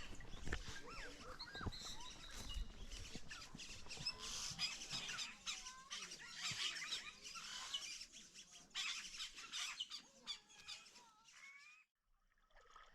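Many birds calling together in a tree, a dense overlapping chatter of short chirps and squawks. It cuts out abruptly about a second before the end.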